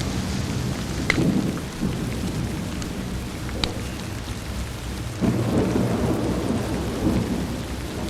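Steady rain with low rolling thunder that swells about a second in and again past the five-second mark. A few sharp crackles from a wood fire sound over it.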